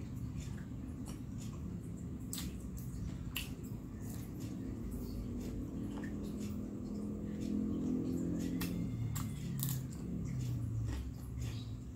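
Close-miked chewing of fried snacks dipped in peanut sauce, wet mouth sounds with scattered sharp clicks and smacks.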